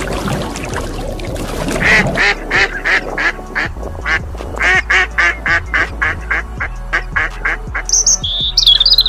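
Waterfowl calling in a rapid run of short, repeated calls, a few a second, over background music. Near the end a bird chirps high.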